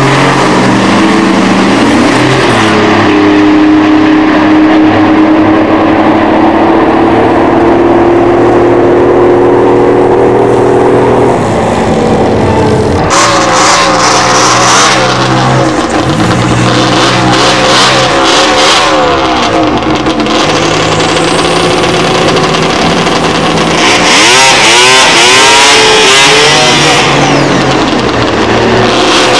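Drag-race cars, a turbocharged Buick V6 and a Pontiac Firebird, running at full throttle. Engine pitch climbs and steps up through the gears over the first ten seconds or so. From about halfway there is a rush of noise with a wavering engine pitch.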